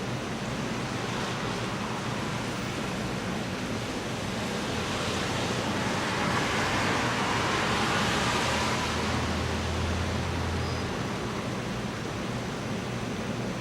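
Steady rain falling, an even hiss. In the middle a louder hiss swells and fades with a low hum under it, a vehicle passing on the wet road.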